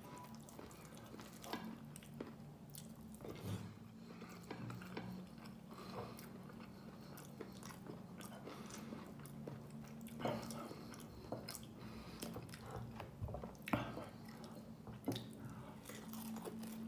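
Close-miked chewing and mouth smacks of someone eating rice by hand, with scattered small clicks as the fingers gather rice from a glass bowl. A faint steady low hum runs underneath.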